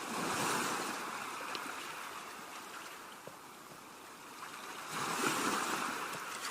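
Waves washing in, a steady rushing that swells up twice, near the start and again about five seconds in.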